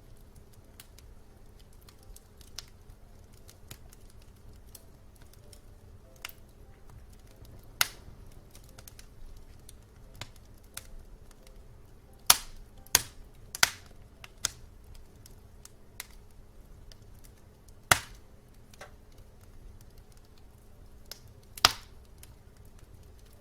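Wood fire crackling in a fireplace: scattered sharp pops and snaps over a faint steady low noise, the loudest a quick run of three about halfway through.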